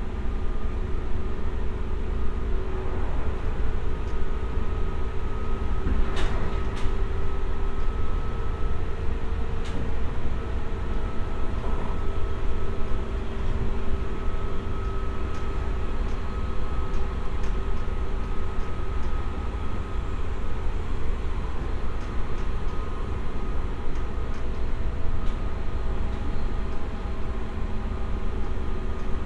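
Running sound heard inside a JR West 201 series electric train car: a steady low rumble of the wheels on the rails with a steady hum from the running gear, broken by a few sharp clicks.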